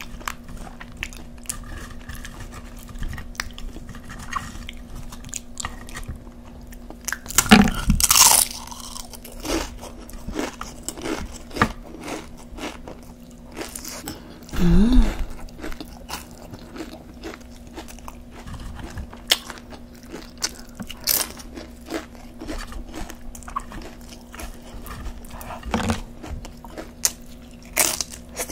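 Close-miked crunching of tortilla chips being bitten and chewed: many sharp crisp cracks over quieter chewing, with louder bites about a third of the way in, in the middle and near the end.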